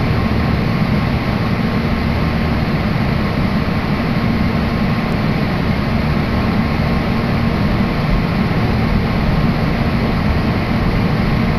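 Steady running noise of a Meitetsu commuter train heard inside the passenger car: an even low rumble with a faint steady high tone over it.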